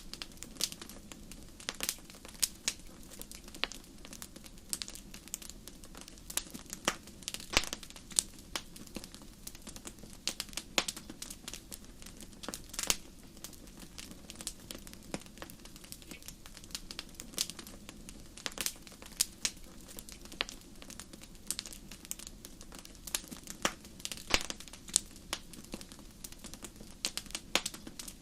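Wood fire crackling in a fireplace: irregular sharp pops and snaps, several a second at times, over a low steady rush of the flames.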